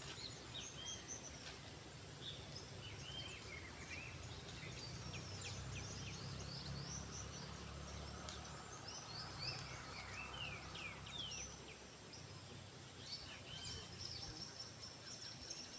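Faint outdoor ambience: birds chirping in many short, quick calls throughout, over a steady high-pitched insect drone and a low rumble.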